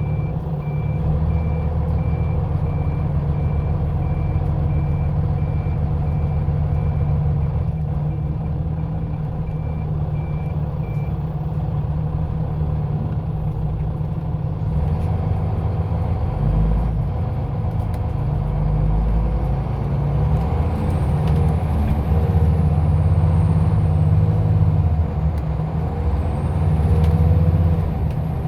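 Scania OmniLink I city bus running with a steady low engine hum. A short warning beep sounds about once a second for roughly the first eleven seconds. In the second half a faint high whine glides up and down.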